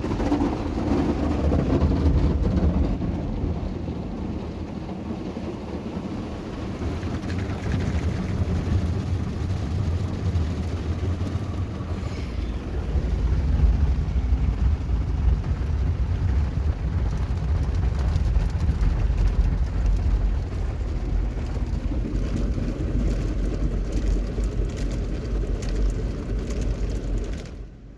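Ryko SoftGloss XS rollover car wash in its brush cycle: wash brushes scrubbing over the car with water spray, a dense, steady rumble with fine spattering that swells and eases as the gantry moves.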